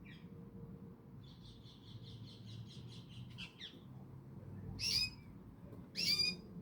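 Canary trilling: a fast run of high notes, about eight a second, lasting a couple of seconds, followed by two louder short chirps.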